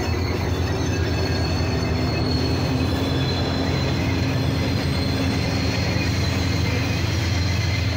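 Diesel-electric freight locomotives GL108 and EL63 powering up: a steady low engine drone, with thin high squealing tones from the train's wheels on the rails above it.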